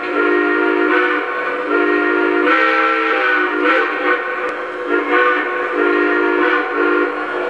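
Steam-whistle sound effect of a Lionel Legacy O scale Union Pacific Big Boy model locomotive, played from its onboard sound system: a chord whistle blown in a series of long and short blasts, its pitch bending slightly in the middle of the series.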